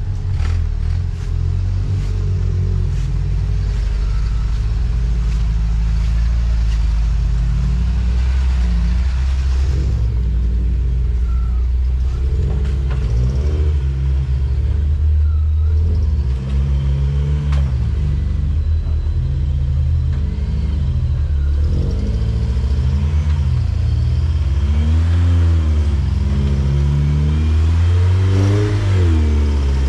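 Off-road vehicle engine running, steady at first, then revving up and down repeatedly in short rises and falls.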